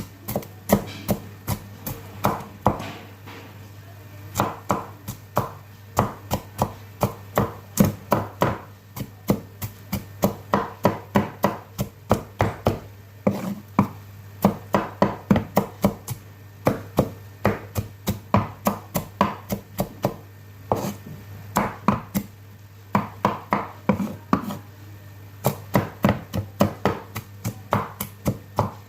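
Kitchen knife chopping okra on a cutting board: quick, sharp taps, about two to three a second, in runs broken by short pauses.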